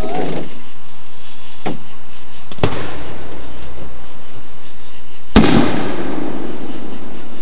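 Aerial fireworks bursting in the sky: a light pop, then a sharper bang about a second later, and about three seconds after that the loudest bang, which echoes for about a second.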